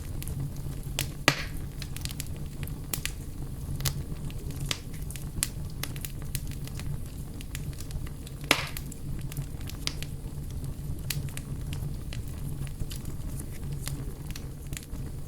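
Wood campfire burning with an irregular crackle of sharp pops, and two louder snaps, one about a second in and one around the middle, over a steady low rumble.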